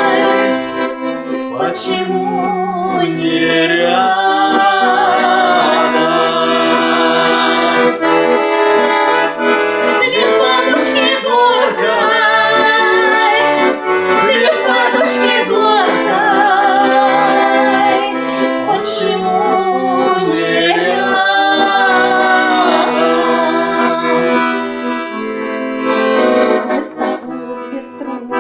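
Accordion playing an instrumental interlude between verses of a slow folk-style Russian song, with a full, continuous melody and chords.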